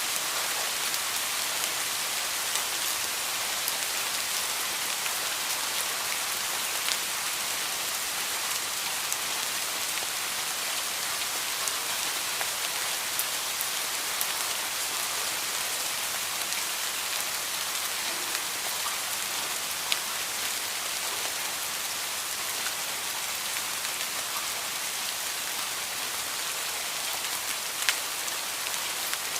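Heavy rain falling steadily: a dense, even hiss of water on surfaces, with scattered sharper drop impacts and a few louder single ticks.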